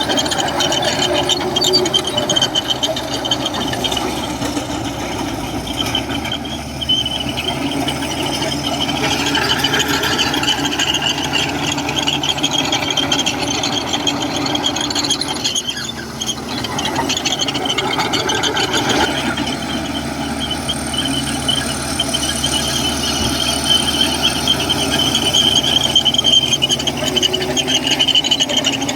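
Komatsu crawler bulldozer working, its diesel engine running with a continuous high metallic squeal over it.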